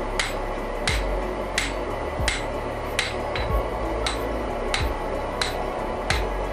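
Blacksmith's hammer forging wrought iron on an anvil: about ten evenly spaced blows, a little under one and a half a second, each with a short metallic ring.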